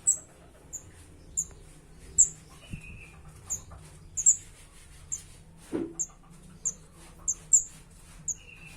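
Kemade chick giving short, high, sharp chirps over and over, roughly one every two-thirds of a second: its begging calls while being hand-fed. A brief lower buzzy note comes about three seconds in and again near the end, and there is a soft knock around six seconds in.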